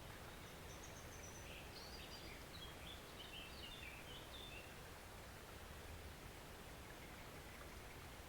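Faint, steady flow of a forest stream, with a small bird giving a quick run of high chirps from about half a second in until about five seconds in.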